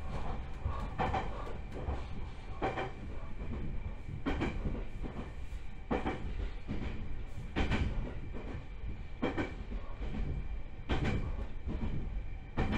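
Joshin Electric Railway 7000 series electric train running, heard from inside the car: a steady rumble with the wheels clacking over rail joints about every second and a half, and a faint steady high-pitched tone.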